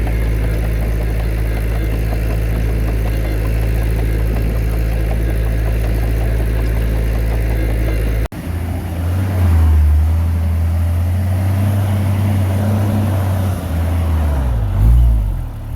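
Heavy diesel earthmoving machine engine running steadily. About eight seconds in the sound cuts abruptly to another engine run, whose pitch rises and falls as it is revved near the end.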